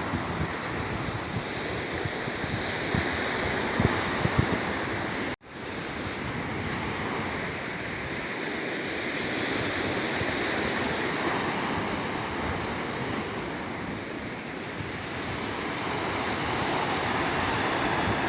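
Black Sea waves washing onto the shore in a steady, slowly swelling and easing surf. A sudden short break cuts through the sound about five seconds in.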